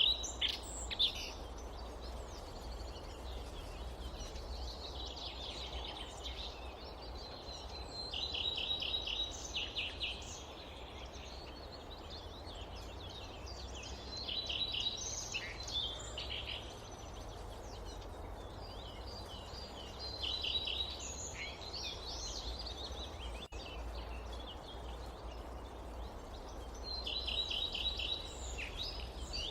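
Forest ambience: a songbird repeats a short song of rapid high notes about every six seconds, over a steady low background rumble.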